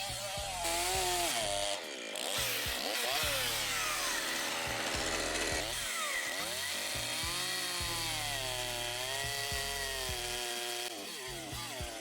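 Makita DCS5121 50 cc two-stroke gasoline chainsaw running, its engine speed rising and falling.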